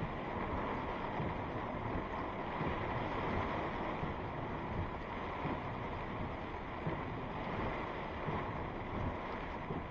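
Steady rushing noise of a strong thunderstorm's heavy rain and wind, with gusts rumbling on the microphone.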